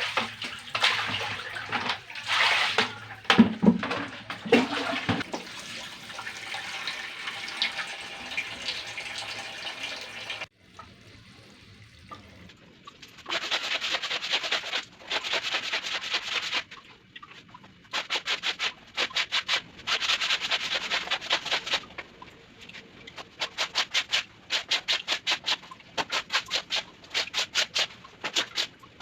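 Clothes being washed by hand: water splashing and sloshing for the first ten seconds, then, after a cut, laundry being scrubbed in bursts of a few seconds of rapid back-and-forth strokes.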